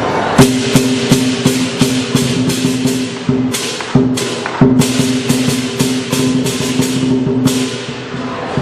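Chinese lion dance percussion: clashing cymbals struck about three times a second over a drum, with a sustained ringing tone underneath. The beat loosens briefly about halfway through, then picks up again.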